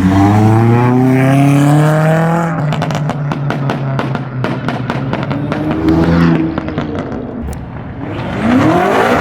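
A vehicle accelerating hard away, its engine note climbing steadily in pitch for about two seconds. This is followed by a quick run of sharp cracks and pops. Near the end another engine passes close, its pitch rising and then falling.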